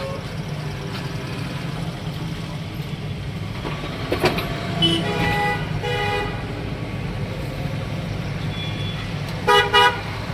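Road traffic running steadily with vehicle horns honking: a few honks around the middle and two short toots in quick succession near the end.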